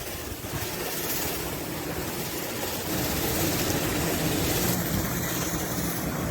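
Steady rushing hiss of an RV roof being washed, with wind buffeting the microphone.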